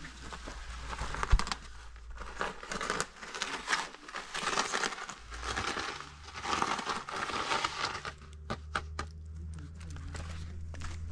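Rustling and crinkling in irregular bursts, as of dry material being handled, with scattered sharp clicks and a low rumble underneath from about halfway.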